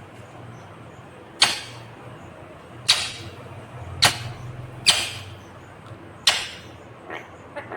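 Indian ringneck parrot giving five loud, sharp screeching calls about a second apart, then a few softer quick chirps near the end.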